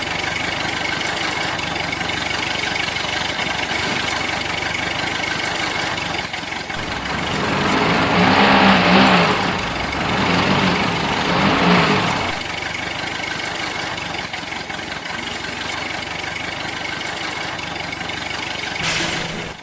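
A small motor running steadily with a thin whine. It grows louder and rougher for about five seconds in the middle, then settles back.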